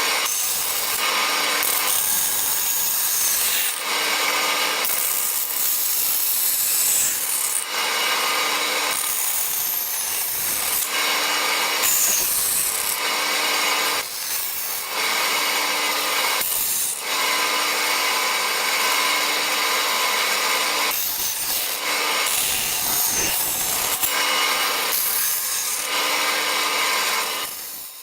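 Sped-up workshop tool sounds in quick cuts: a power tool's motor running as metal is drilled and bandsawn, alternating with the scraping of hand filing. The sound fades away near the end.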